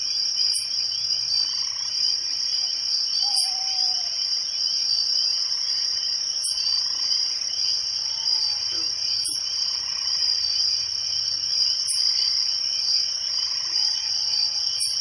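A steady chorus of crickets chirping, with a few short croaks from frogs underneath.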